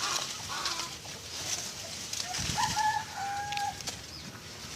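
Domestic chickens clucking, with a few short held calls about halfway through, over scattered clicks.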